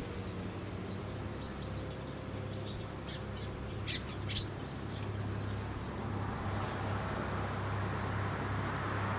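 A bird calls a few short times about four seconds in, over the steady low hum of rice-harvesting machinery. A rushing noise builds through the second half.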